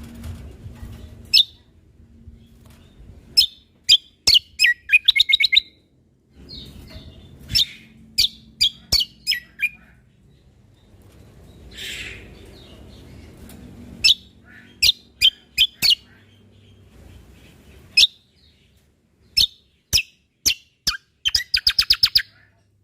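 Cucak kombo (kecial kombok) songbird singing: loud, sharp high chirps, some single and some strung into quick rapid-fire runs, with a fast burst of notes near the end.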